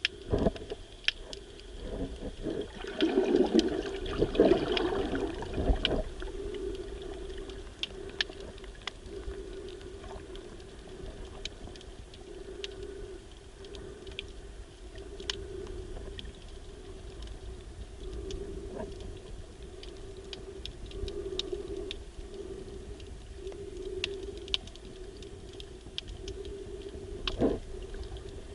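Underwater sound picked up by a camera in shallow sea water: many scattered sharp clicks and crackles over a steady low hum. A louder stretch of swishing, churning water comes a few seconds in, and there is a single thump near the end.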